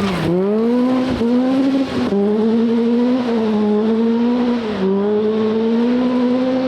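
Rally car engine running hard under acceleration, its pitch climbing and dropping back at each upshift, about three gear changes.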